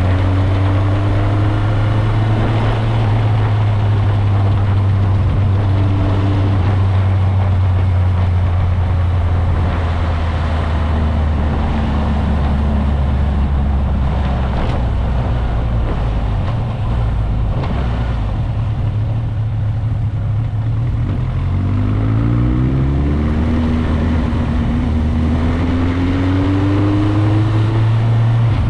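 Motorcycle engine running while riding. Its note holds steady for most of the stretch, then climbs in pitch about two-thirds of the way through as it accelerates, and rises again near the end.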